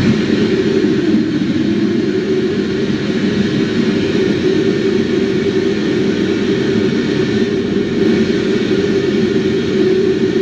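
A steady wash of effects-pedal noise, fuzz and reverb, imitating a storm. It is strongest in a low rumbling band, with a thinner hiss above it.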